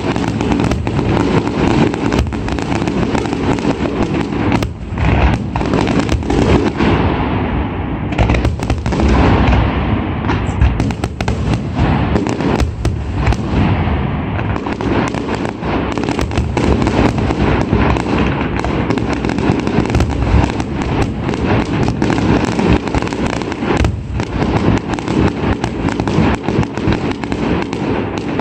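Fireworks display: a dense, continuous barrage of firework bangs and crackling, with no let-up.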